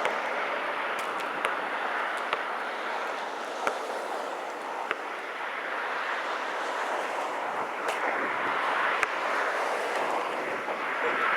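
Steady rushing wind, with a few short sharp knocks scattered through it.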